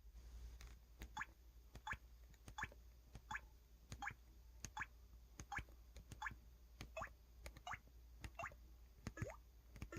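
EV-W350 mobile phone's keypad button tone playing again and again as keys are pressed: each press gives a faint click and a short blip that falls in pitch like a water drop. The blips come about every three-quarters of a second, and the last few drop lower.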